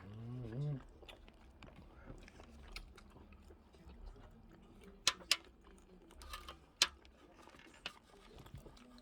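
Close-miked chewing and eating of seafood-boil food, with small wet clicks and smacks. A short hummed voice sound at the start, and a few sharp clicks about five to seven seconds in.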